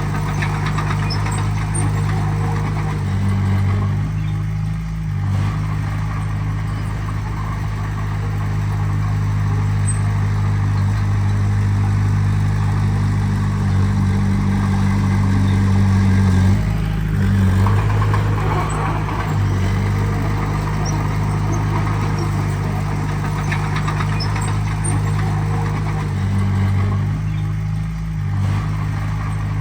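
Heavy diesel engine of earthmoving equipment running steadily under load, its engine note shifting briefly a few seconds in, about halfway through and near the end.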